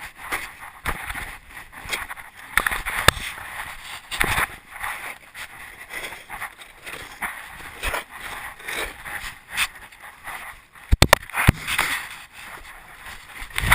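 1/8 scale RC monster truck running over rough ground, with irregular rattling and scraping and a cluster of sharp knocks about eleven seconds in.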